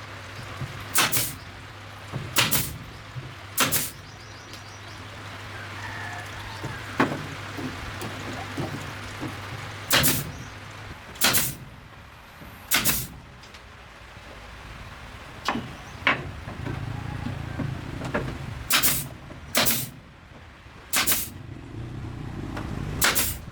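A hand tool striking or scraping repeatedly: about a dozen short, sharp strokes at irregular intervals, some in quick pairs, over a steady low hum that fades about halfway through.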